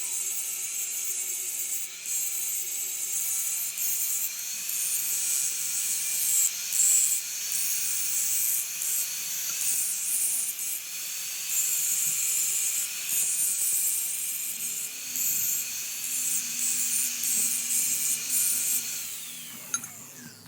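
A power tool working on metal: a steady high whine over a loud hiss, which breaks off briefly now and then as the tool is lifted from the work. Near the end the motor winds down and stops.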